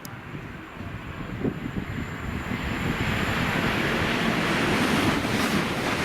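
A train approaching along the line, its rumble and rush growing louder over the first three seconds and then holding steady as it comes close. A thin high tone sounds at first and fades out partway through.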